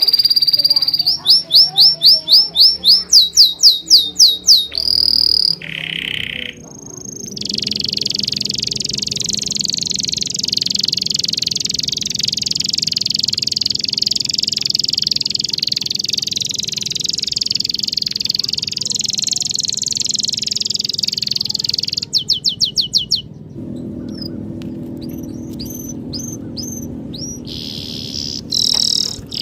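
Wild birds calling: a quick series of about a dozen loud, sweeping high chirps, then after an abrupt cut a long high buzzing trill lasting about fifteen seconds. A fast run of notes follows, then a lower background chorus with scattered short chirps near the end.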